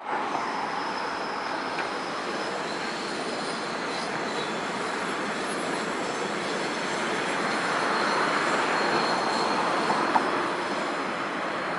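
Steady rumble of rail traffic on station approach tracks, with a faint, thin, high wheel squeal coming and going. It swells a little past the middle, with a couple of light clicks.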